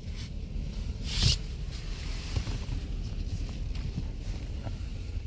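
Steady low rumble of a car idling, heard from inside the cabin, with one brief hiss about a second in.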